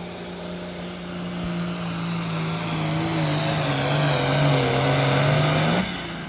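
Pulling tractor's diesel engine running hard under load down the track, getting louder, its pitch sagging partway through and climbing again before the sound cuts off suddenly near the end.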